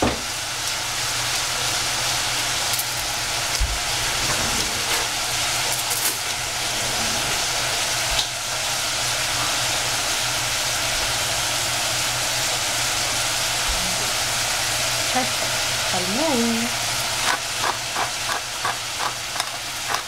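Celery sizzling in a stainless steel saucepan over a gas burner, a steady hiss, with a few knocks of a wooden spatula against the pan. From about three seconds before the end, a pepper mill grinds in quick regular clicks, roughly three a second.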